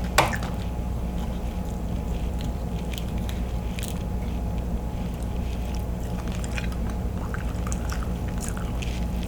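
Steady low hum with a sharp click just after the start and scattered faint clicks and squishes, typical of king crab shell and meat being handled at the table.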